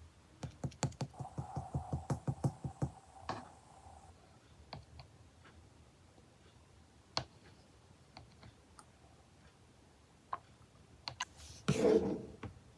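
Quick light clicks or taps, about four a second for the first three seconds, then scattered single clicks, with a short louder rustling burst near the end.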